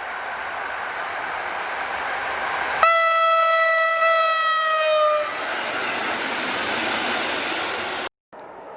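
A PKP EN57 electric multiple unit runs past and sounds one long horn blast, the Rp1 warning signal, about three seconds in. The blast lasts about two and a half seconds and its pitch sags at the end. The rumble of the passing train continues after it and cuts off abruptly near the end.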